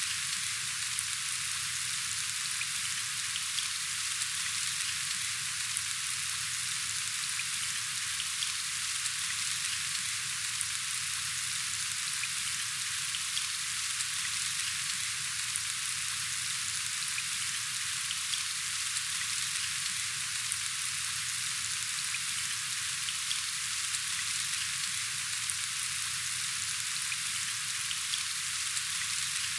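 Steady rain falling: an even hiss of many drops with faint scattered ticks of individual drops.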